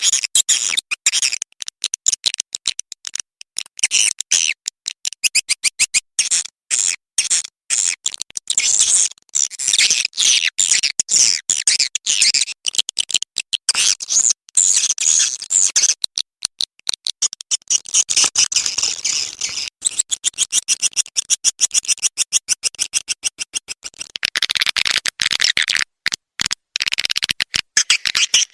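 Swiftlet lure call: rapid, high-pitched twittering chirps of edible-nest swiftlets, chopped into fast repeated bursts with short gaps, a recording of the kind played from swiftlet houses to draw the birds in.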